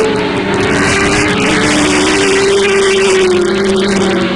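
Several racing motorcycle engines running hard at high revs, loud and steady. Their pitch slides down and back up as the bikes race past.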